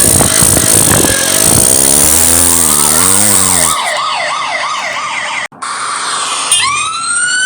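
Police car siren sound effect: a fast warble over loud noise in the first half, a sudden brief cutout about five and a half seconds in, then a wail rising in pitch near the end.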